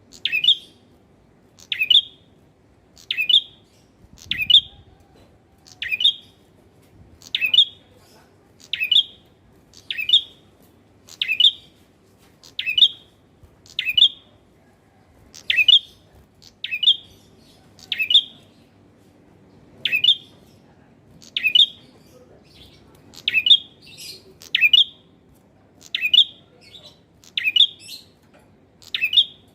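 Male red-headed prenjak giving a short, sharp chirping call over and over at an even pace, about once every second and a half.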